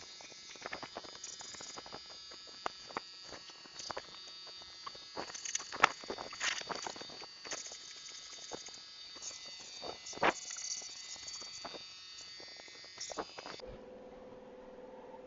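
Paint spray gun hissing steadily as it sprays clear coat, with many scattered sharp clicks; the hiss cuts off suddenly near the end, leaving a low steady hum.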